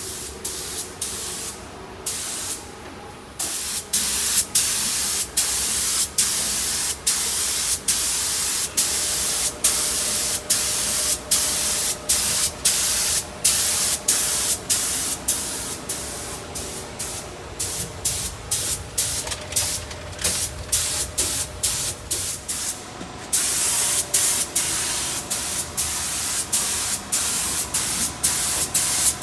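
Paint being sprayed: a strong hiss in short repeated passes, cut by brief gaps about every half second.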